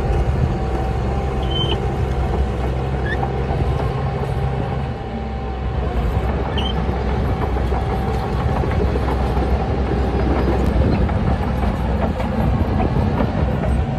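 Heavy diesel engine of earthmoving machinery running steadily under load, a dense low rumble. It dips briefly about five seconds in, then comes back at full strength.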